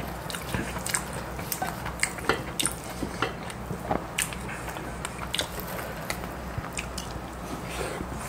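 Close-miked eating sounds of two people chewing raw gizzard shad sashimi in lettuce wraps and sea squirt bibimbap: irregular wet clicks and smacks, a few a second.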